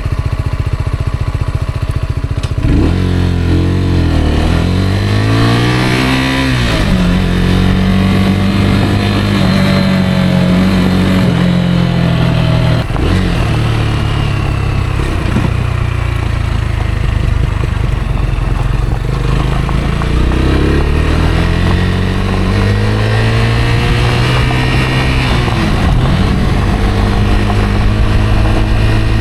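Rieju Aventura 125's single-cylinder four-stroke engine running on a ride: low and steady for the first few seconds, then revving up and down several times, with steady stretches between.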